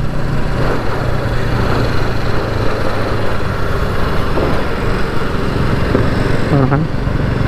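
Bajaj Pulsar NS200's single-cylinder engine running steadily at low revs, the motorcycle cruising slowly in third gear at about 20–25 km/h.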